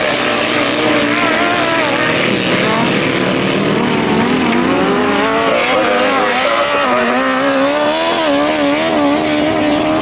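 Several grasstrack racing sidecar outfits' engines running hard together as the pack laps the track. Their pitch wavers up and down as the throttles are opened and eased through the turns.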